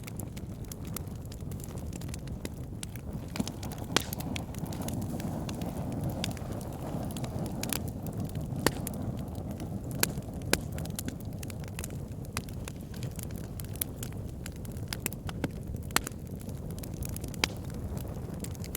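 Wood fire burning in a fireplace: a steady low rumble of flames with irregular sharp crackles and pops from the burning wood, a few louder snaps standing out.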